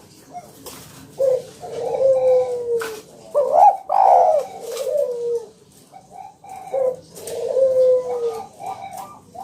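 Spotted dove (tekukur) cooing: repeated phrases of low notes, several sliding downward, with short pauses between phrase groups.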